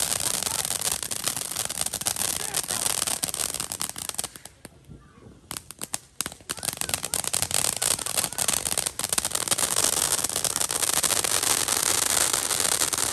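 Fireworks crackling in a dense stream of rapid pops. The pops break off about four seconds in and start again about two seconds later.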